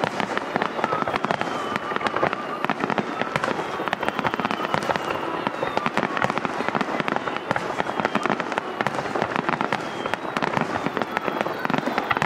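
Fireworks finale: many shells bursting at once in a dense, unbroken rattle of cracks and pops that keeps up at the same intensity throughout.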